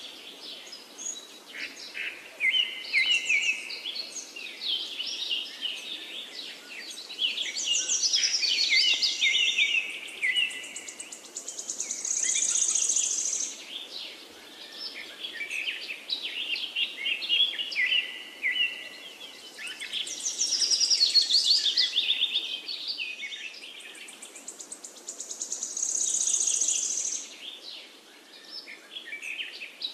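Birds chirping and singing in quick, varied phrases, with a high steady buzz like an insect's that comes and goes a few times.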